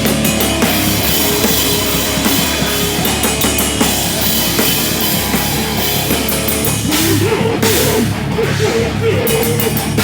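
Live rock band playing, with a full drum kit driving the song. A wavering higher melodic line comes in about seven seconds in.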